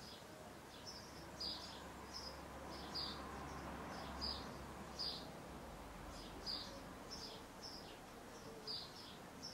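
A small bird chirping over and over, short high chirps about once a second, over faint outdoor background noise.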